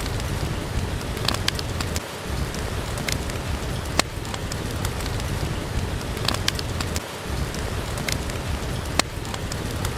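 Steady rain hissing, with a wood fire crackling over it: scattered sharp pops and snaps, the loudest about four seconds in and again near the end.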